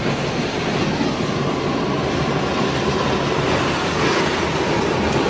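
Tsunami water surging: a loud, steady rushing roar. A faint high tone runs through it from about a second in.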